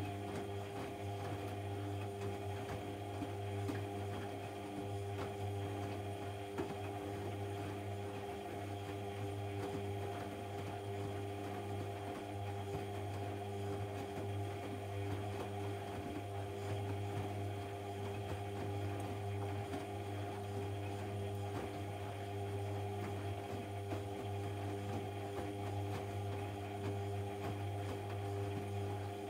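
AEG Lavamat 1400 front-loading washing machine running with a steady, even hum.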